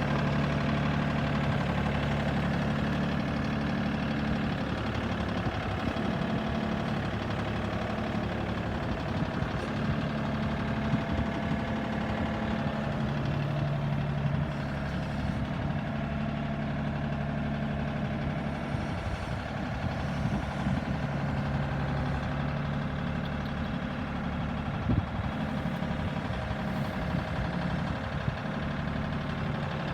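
Tractor engine running steadily at a low, even pitch, with a few light knocks.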